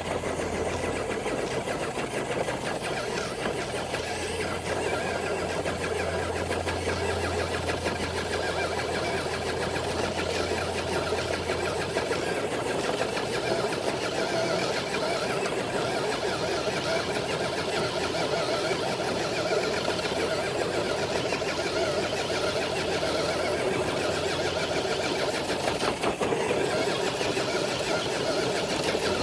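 Traxxas TRX4 RC crawler's electric motor and geared drivetrain whining steadily under load as it drags a weighted sled.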